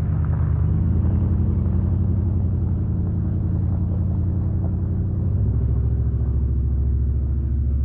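Motor vehicle engine running with a steady low hum, its pitch shifting about five seconds in.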